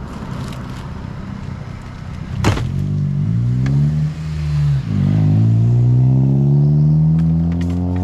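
A motor vehicle's engine accelerating hard through the gears: its pitch climbs, dips with a gear change about five seconds in, then climbs again. A sharp knock comes about two and a half seconds in.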